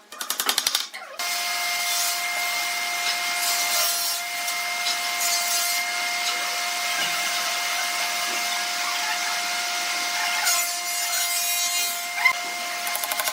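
A power tool working wood: a short burst of rapid chattering strokes, then a steady run with a constant whine for about twelve seconds.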